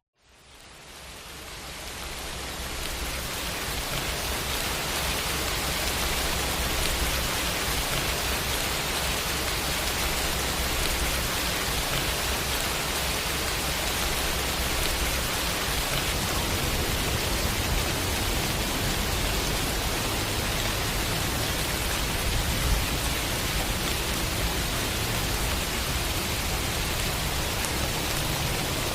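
Recorded rain sound effect: a steady hiss of falling rain that fades in over the first few seconds, then holds even, with a single faint knock or drop about three quarters of the way through.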